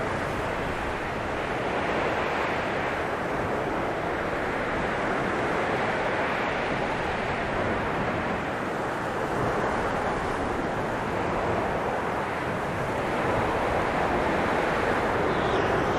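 Blizzard wind blowing hard and steadily, swelling and easing in slow gusts every few seconds, with a faint whistle rising near the end.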